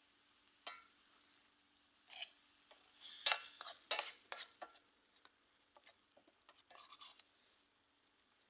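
A utensil scraping and stirring food in a pan over the steady sizzle of frying. There is a single click about a second in, a dense run of scrapes in the middle, and a shorter run near the end.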